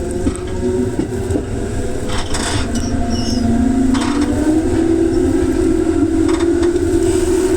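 Electric train running, heard from on board: a constant low rumble with a few sharp clicks, and a motor whine that rises in pitch about three to five seconds in as the train picks up speed, then holds.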